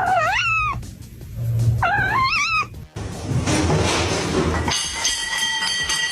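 A cat meowing twice, two wavering calls about two seconds apart, over music.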